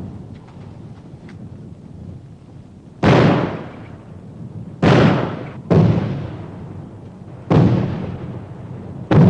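Five sudden loud bangs at uneven spacing, each dying away over about a second.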